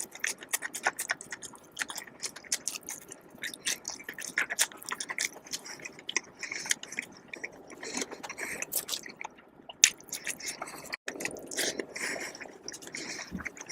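Close-miked chewing and biting of food, with many short mouth clicks in quick succession and one sharper, louder click a little before the tenth second.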